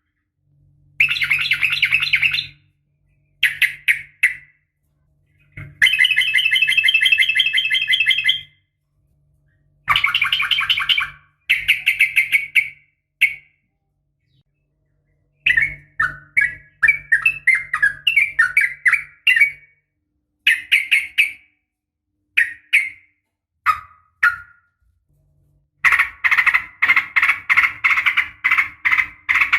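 Yellow-vented bulbul calling in bursts of quick chattering notes, each burst lasting up to about three seconds, with abrupt, fully silent gaps between them.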